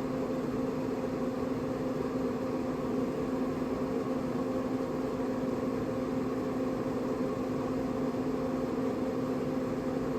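Traeger Scout portable pellet grill running just after lighting: a steady motor hum with an even airy hiss from its fan, unchanging throughout.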